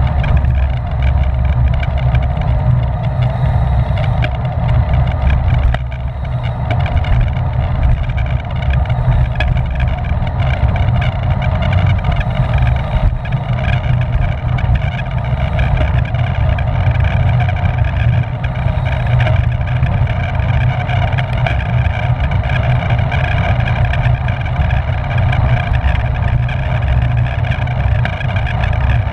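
Steady wind rushing and buffeting over a bicycle-mounted camera's microphone as the bike is ridden at race speed, heaviest in the low rumble.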